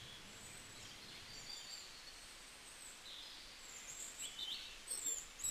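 Faint birdsong: short high chirps and whistles over a low steady hiss, a little louder and busier near the end.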